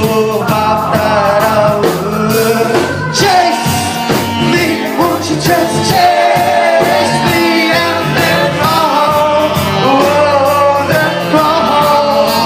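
Live band performing a song: a singer's voice carries the melody over guitar and drums with a steady beat.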